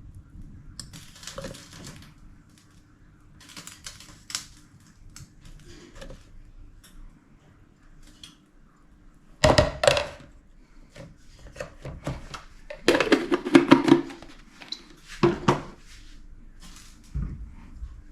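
Kitchenware being handled: clinks and rattles of utensils against dishes and pots, coming in irregular clusters, with the loudest clatter about halfway through and again near the end. A faint steady hum runs underneath.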